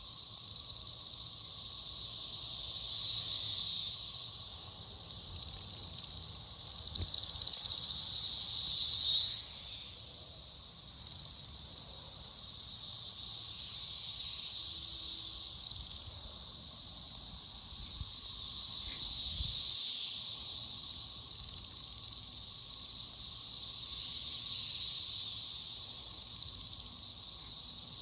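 Chorus of periodical cicadas: a dense, high-pitched buzz that swells and fades about every five seconds.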